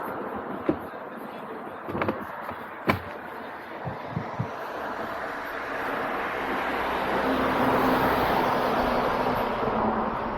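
Vehicle engine and road noise swelling to its loudest about eight seconds in, with a steady low hum, then easing off. A few sharp clicks sound in the first half.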